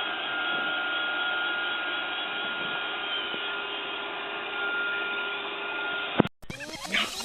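Robot vacuum cleaner (Roomba) running: a steady whir with a thin high whine over it. It cuts off abruptly about six seconds in, and brief, different sounds follow.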